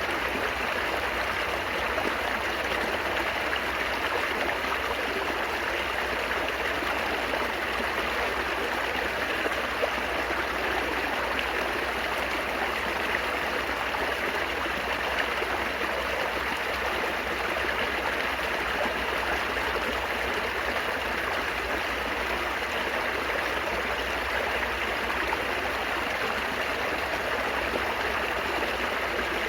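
Flowing water babbling steadily, as of a small stream running over stones, an even rushing without pauses or separate splashes.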